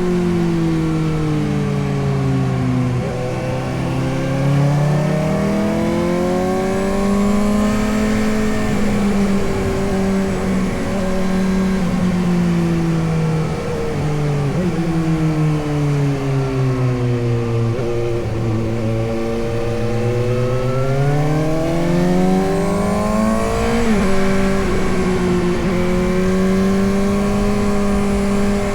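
Suzuki GSX-S750's inline-four engine under way, its pitch repeatedly dropping and rising as the throttle is rolled off and opened again, with a long drop through the middle, a quick climb near the end and a steady cruise at the close. A steady rush of wind lies under it.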